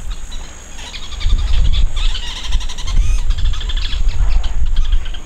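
Small birds chirping in quick runs of short, high notes, over a low rumble.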